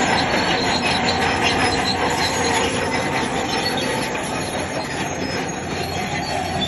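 Crawler bulldozer working, its engine running under the squeal and clank of its steel tracks.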